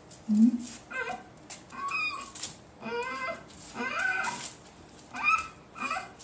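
Puppies whining: a short low grunt just after the start, then high squealing cries that rise and fall in pitch, about one a second.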